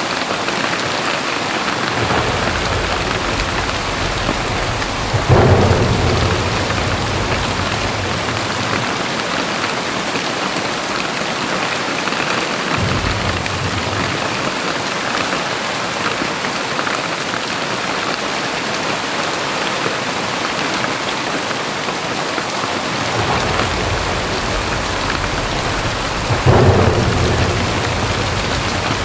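Very heavy rain pouring steadily, with thunder: low rumbles roll in several times, and two sharper claps break out about five seconds in and near the end.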